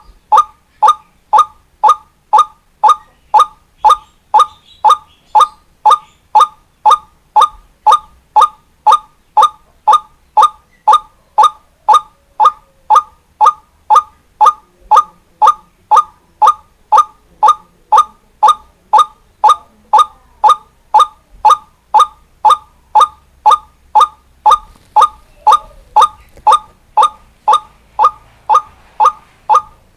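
White-breasted waterhen (ruak-ruak) call repeated in an even, monotonous series, about two short notes a second at the same pitch: a lure recording used to draw in wild waterhens.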